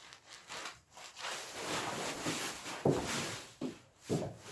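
Rustling and handling noises as a wooden jig is set against a log, with three short dull knocks in the second half.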